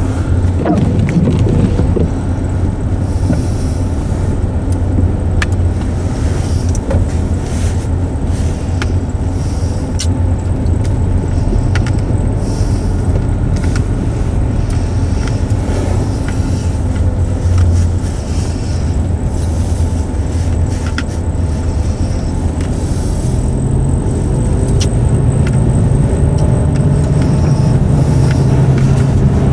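Car cabin sound while driving: a steady low rumble of engine and tyres on the road, with scattered faint ticks. The engine note rises a little near the end.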